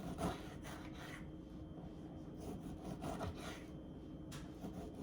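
Small kitchen knife slicing a roma tomato on a cutting board: soft, irregular cutting strokes.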